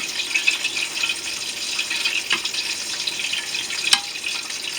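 Chicken wings deep-frying in hot grease: a steady crackling sizzle, with a couple of sharp clicks, the louder one about four seconds in.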